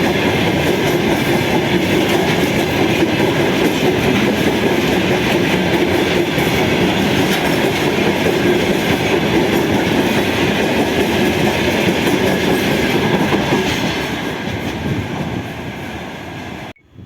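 A train passing close by on the tracks, a loud steady rolling rail noise from its wheels and cars. It fades over the last few seconds, then cuts off abruptly.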